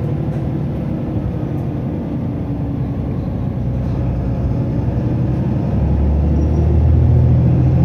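Mitsubishi Fuso Aero Star city bus (LKG-MP37FKF) running fast with its turbo-diesel engine under load; the engine note grows louder about six seconds in.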